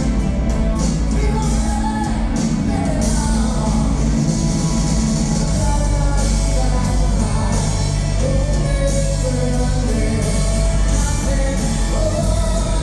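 Rock band playing live in a large hall: electric guitars, bass and drums with a lead vocal, loud and steady.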